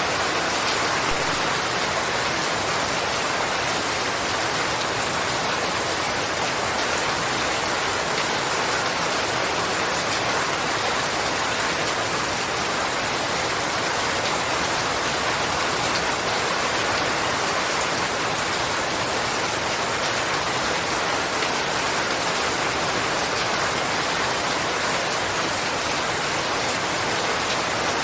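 Steady rain falling on a surface, an even hiss of many raindrops.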